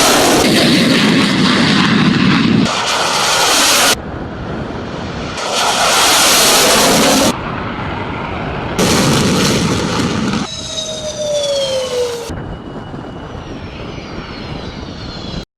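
Military jet aircraft noise in a run of edited clips: a loud jet roar that cuts in and out abruptly several times, then a falling jet whine over the last few seconds, ending in a sudden cut.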